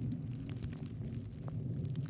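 Wind buffeting the microphone during a snowstorm: a steady, uneven low rumble.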